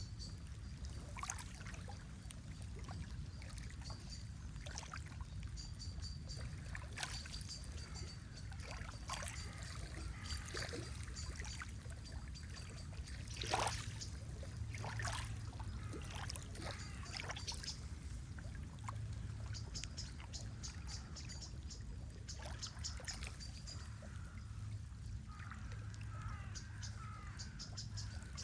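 Water lapping and trickling, with scattered drips and splashes over a low steady rumble. Small birds chirp through it, with fast runs of high chirps about two-thirds of the way in and a warbling phrase near the end.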